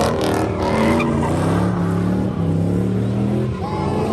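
Car engine revving hard, its pitch stepping up and down, with tyres skidding and squealing, as in a drift or donut.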